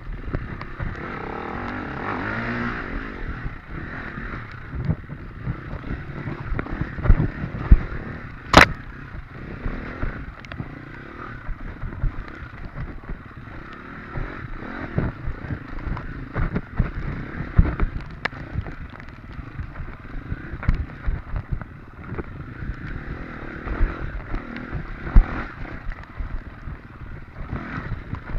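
Off-road motorcycle engine running and revving as the dirt bike rides over rough race terrain, with frequent knocks and clatter from the bike hitting bumps and rocks. A single sharp click stands out about a third of the way through.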